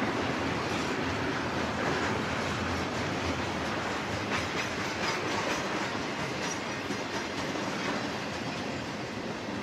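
Double-stack intermodal train's well cars rolling past: a steady rumble of steel wheels on rail, with scattered clicks from the wheels and trucks.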